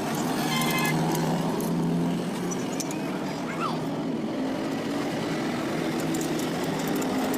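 Motorcycle engine running steadily at idle through its exhaust silencer, a low even drone.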